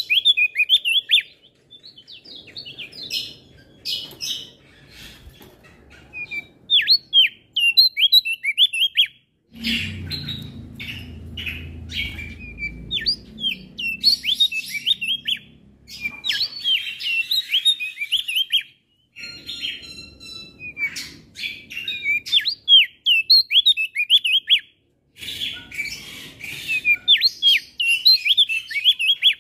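Male opior jambul, a white-eye, singing in bursts of rapid high chirps, phrase after phrase with short pauses between them.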